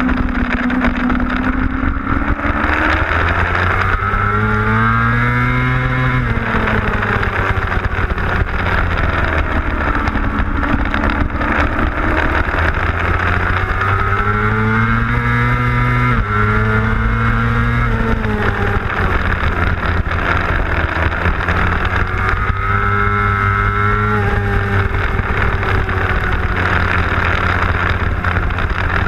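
A 600cc racing motorcycle's engine heard onboard at race pace, its pitch climbing under hard acceleration and dropping back again several times as the rider works through the gears and slows for corners.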